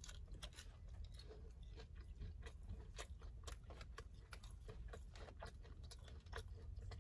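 Close-up chewing of battered honey chicken: faint, quick wet mouth clicks and soft crunches.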